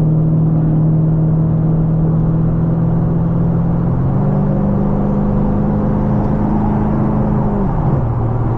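2010 Camaro SS 6.2-litre V8 with long-tube headers and straight pipes, droning loud under a wide-open-throttle highway pull. The exhaust note jumps higher about four seconds in, holds, then drops back near the end as it shifts.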